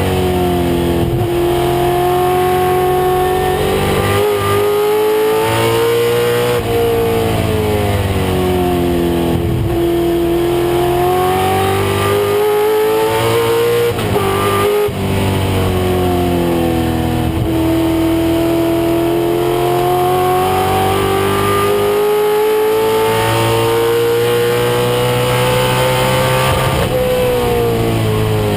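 A 1996 Ford Mustang race car's engine running hard under racing load. Its pitch climbs slowly over several seconds and drops sharply four times as the revs fall between the long pulls.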